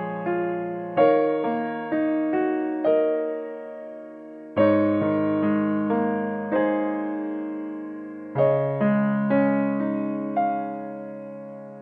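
Background piano music: slow, gentle chords and a melody, each struck note fading away before the next.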